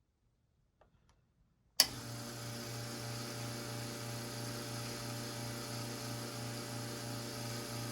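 Brasilia Portofino 3-group espresso machine switching on with a sharp click about two seconds in, then its pump running with a steady, slightly pulsing hum as water is pushed through a brew group that has just been cleared of a blockage.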